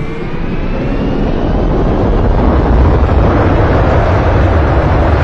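Loud rumble of an airliner's engines and airflow heard from inside the passenger cabin, building over the first few seconds and then holding steady.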